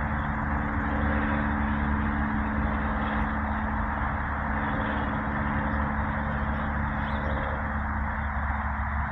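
Steady road traffic noise, a continuous wash of passing vehicles with a low hum beneath it.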